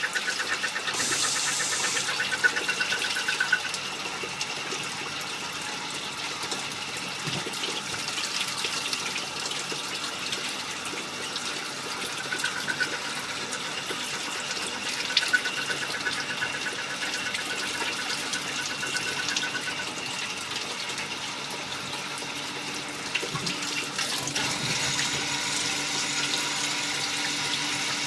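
Multi-function automatic lathe machining small-diameter parts, with cutting fluid splashing steadily and a constant high machine tone. A fast buzzing comes and goes in passes, and the hiss grows denser near the end.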